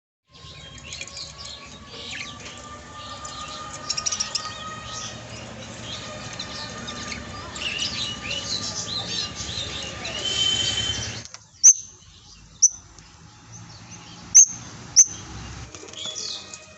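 Budgerigars chirping and chattering, a busy stream of quick warbling calls. About eleven seconds in, the sound changes abruptly to a quieter background broken by a few short, loud, sharp chirps.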